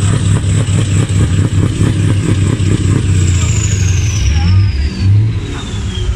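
Heavy truck's diesel engine running loudly with a rapid clatter. From about halfway a high whine falls steadily in pitch.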